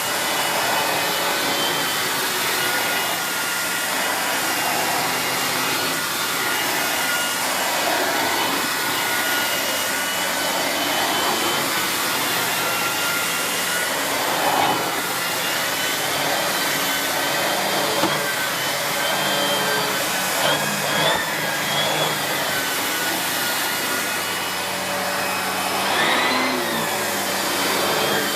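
Miele S8730 (C3 Complete) cylinder vacuum cleaner running with a steady whine while its floor head is pushed back and forth over the floor, the sound swelling with each stroke. The whine wavers in pitch briefly a couple of times in the second half.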